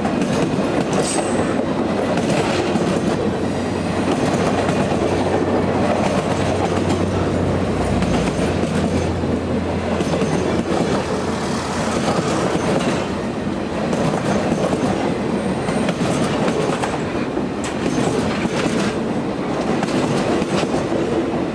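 Ringling Bros. and Barnum & Bailey circus train's passenger cars rolling past close by: a steady rumble of steel wheels on the rails with repeated clicks as the wheels cross rail joints. A low hum beneath fades out about nine seconds in.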